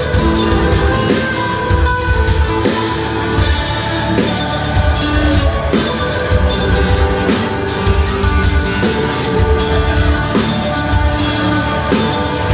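Rock band playing live: electric guitar over bass and a drum kit, with a steady, quick cymbal beat.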